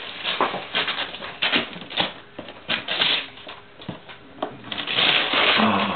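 Wrapping paper being torn and crumpled off a present: a run of short, irregular rips and crackles, with a longer rip about five seconds in.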